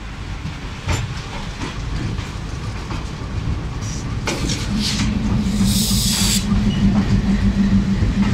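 Passenger train coach rolling into a station over the rails: low rumble with scattered clicks from the wheels over rail joints, a brief hiss about six seconds in, and a steady low hum that sets in about five seconds in and grows louder.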